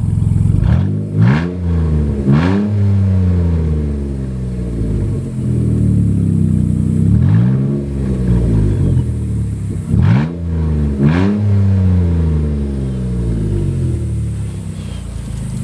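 2012 Jeep Wrangler's 3.6-litre Pentastar V6 running on its catalytic converters only, the exhaust cut off just after the cats, so it is extremely loud. It idles and is blipped about five times, each rev climbing quickly and dropping back: two close together early, one alone in the middle, and two more close together later.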